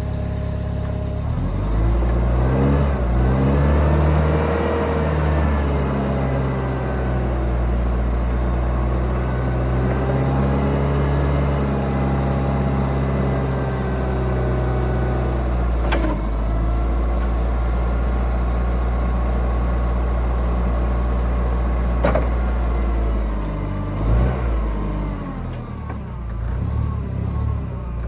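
LPG engine of a HELI FG35 forklift running, its speed rising and falling several times as it is revved. Two sharp knocks come partway through.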